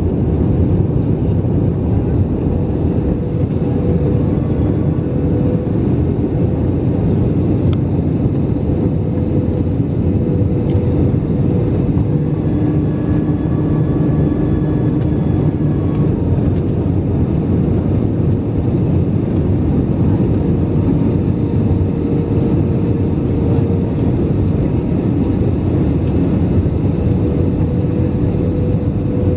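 Steady cabin noise inside an Airbus A319 airliner in descent on approach: a constant rumble of the engines and rushing air, with a steady hum running through it.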